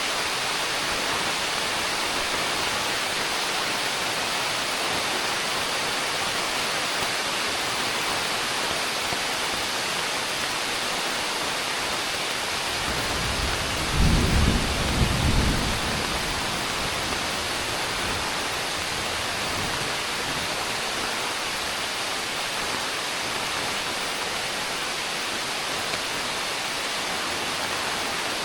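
Heavy rain falling with a steady hiss, and a low rumble of thunder about halfway through that swells for two or three seconds and fades.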